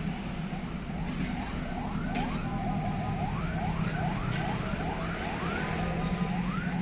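An electronic warning alarm repeating short rising chirps, about three a second, over the steady running of a heavy vehicle's engine; the chirps start about a second in.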